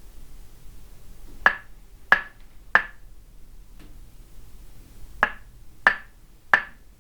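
Wooden mallet striking a wooden stake in Thai tok sen massage: two groups of three sharp knocks, about two-thirds of a second apart, with a faint tap between the groups.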